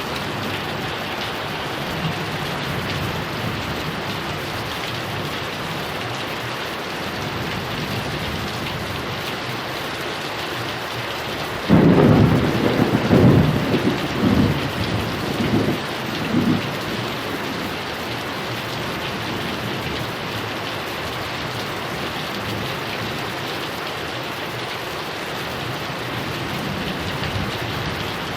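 Heavy rain falling steadily, with a clap of thunder about twelve seconds in that rumbles on in several rolling surges for about five seconds before fading back into the rain.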